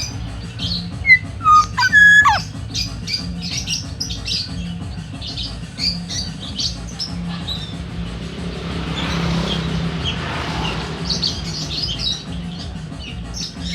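Black-naped oriole (burung podang) calling: a few clear whistled notes that glide down, about a second or two in, among many quick, high chirps that carry on. Partway through, a rushing noise swells and fades, over a steady low hum.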